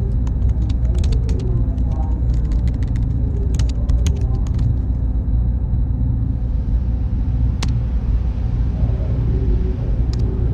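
Steady low rumbling ambience with a faint hum and scattered light clicks.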